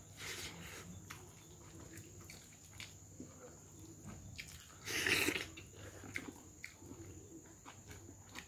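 Close mouth sounds of a person chewing a handful of rice and pork eaten by hand, with many small wet clicks and a louder, harsher sound about five seconds in.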